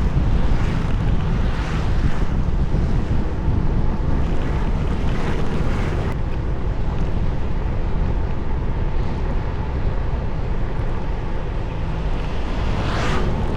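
Wind buffeting the microphone of a moving motorbike, over the rumble of its engine and tyres on the road. A few brief rushing whooshes rise out of it, the strongest near the end.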